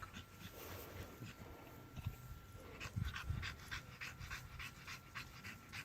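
Dog panting, quick short breaths in a steady rhythm.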